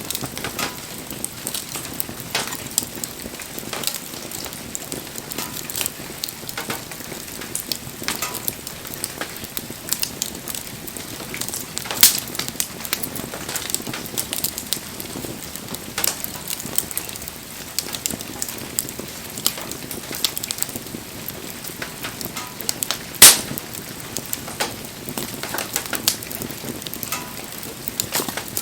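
Wood bonfire crackling steadily, with frequent small pops and two sharper, louder pops: one about twelve seconds in and the loudest about twenty-three seconds in.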